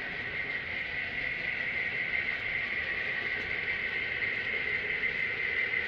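Model B&O EM-1 steam locomotive running along the layout, a steady sound with a strong high band and no breaks.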